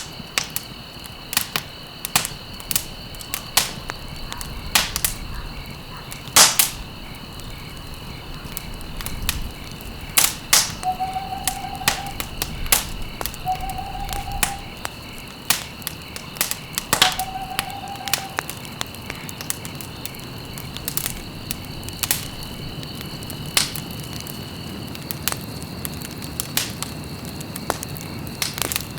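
Campfire crackling with frequent sharp pops, the loudest about six and a half seconds in, over a steady high-pitched drone. Three short calls sound a few seconds apart around the middle.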